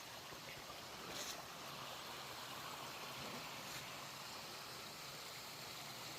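Steady rush of flowing water, as from a small stream, with a light tap about a second in.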